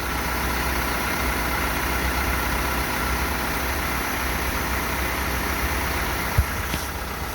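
Isuzu 4HK1-TC 5.2 L four-cylinder turbo-diesel running steadily, its speed picking up slightly in the first second. A single short knock about six seconds in.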